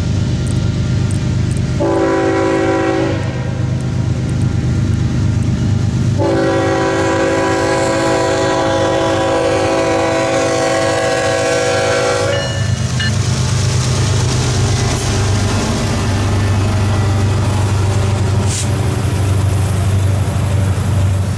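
Union Pacific diesel freight locomotives passing close by, engines running with a heavy steady rumble. The air horn sounds twice: a short blast about two seconds in, then a long blast of about six seconds.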